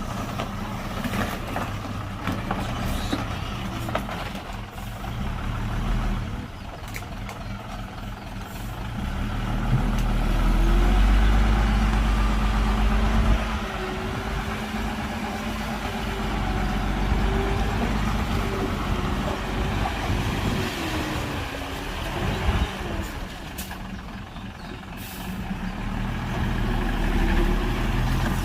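Heavy diesel engine of earthmoving machinery running under load, its pitch rising and falling, loudest from about ten to thirteen seconds in.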